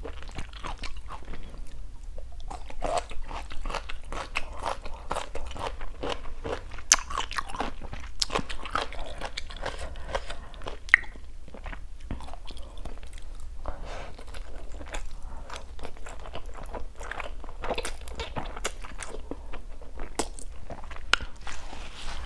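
Close-miked eating sounds: crisp crunching bites and chewing, with many short wet mouth clicks throughout, as pan-fried asparagus and then noodles are eaten.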